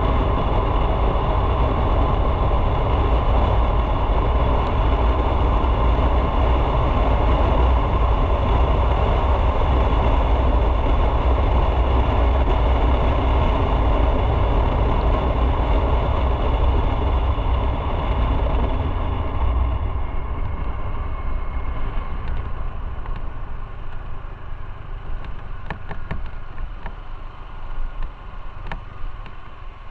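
Motorcycle running on the road, engine rumble mixed with rushing wind noise, loud and steady, then easing off and getting quieter after about twenty seconds, with a few light clicks near the end.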